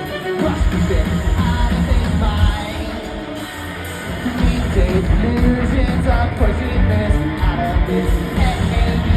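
Live rock band performing a song: guitars, bass and drums with a sung lead vocal. The bass and drums drop back for a moment about three seconds in, then the full band comes back in.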